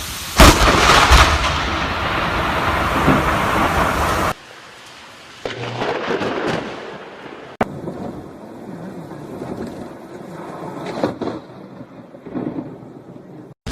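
A close lightning strike: a sudden, very loud thunder crack about half a second in, followed by a few seconds of heavy rumbling. Then quieter rain and thunder rumbles that break off abruptly several times.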